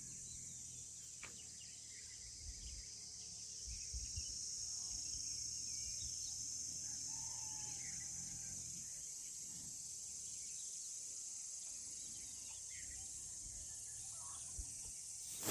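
A steady, high-pitched insect chorus, with a few faint bird chirps scattered through it and a low rumble underneath.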